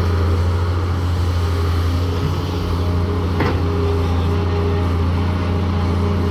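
Diesel engine of a Daewoo 170W-III wheeled excavator running steadily, with a single brief knock about halfway through.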